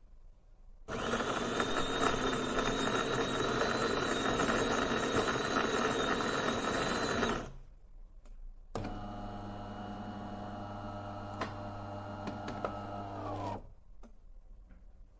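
A household appliance's electric motor runs with a loud whirring and a high whine for about six seconds, then stops. A second, lower humming motor then runs steadily for about five seconds and falls in pitch as it winds down.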